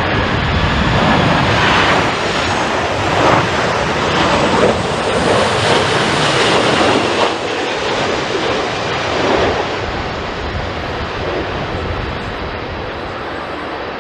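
Jet airliner's engines passing close by, a loud rush of engine noise that builds, peaks mid-way and slowly fades.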